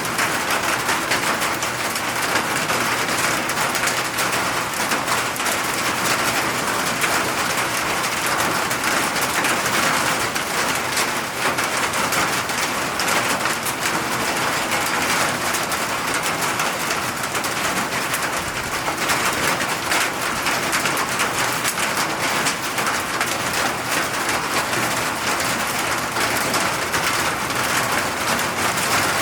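Steady rainfall, a dense unbroken patter of drops on surfaces.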